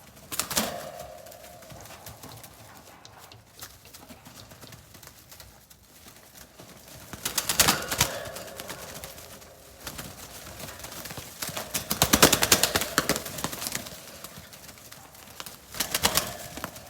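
Young racing pigeons moving about in a cage, making bursts of rapid tapping and clattering that come back several times, with quieter shuffling in between.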